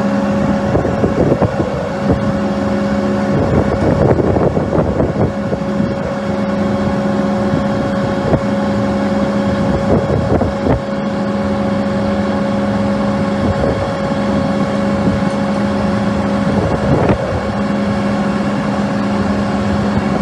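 Case IH Magnum tractor's diesel engine running at a steady speed with a constant hum, overlaid by irregular clattering and knocks.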